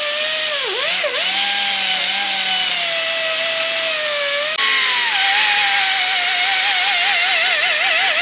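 Power tool spinning a rubber cleaning attachment against the gasket surface of an old brake master cylinder, stripping off the old gasket material. It gives a steady high whine over a hiss, dipping in pitch about a second in as it is pressed against the metal, and wavering near the end.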